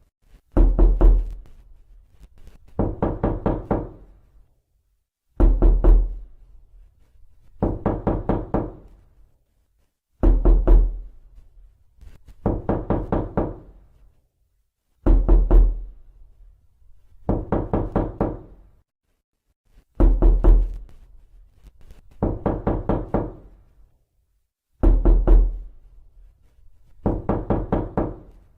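Knocking on a door: bursts of four or five quick, heavy knocks, each burst repeating about every two and a half seconds with silence between.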